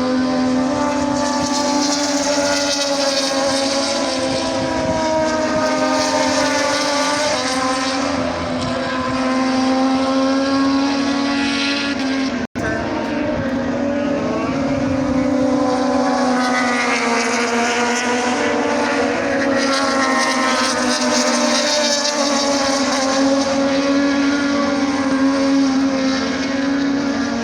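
Engine running at a steady high speed, its pitch holding nearly level with slight rises and falls, cut off for an instant about halfway through.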